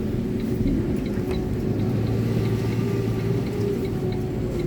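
Iveco concrete mixer lorry's diesel engine running at low speed, heard from inside the cab, with faint short ticks repeating evenly over it.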